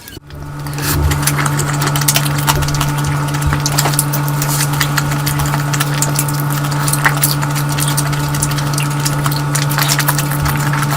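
Close-miked eating sounds: many small wet clicks and smacks of chewing, over a steady low electrical hum that starts with a cut just after the beginning.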